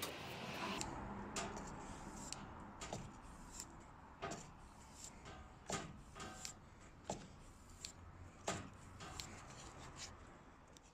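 Irregular light clicks and taps, roughly one every half second to a second, over a faint background that slowly fades.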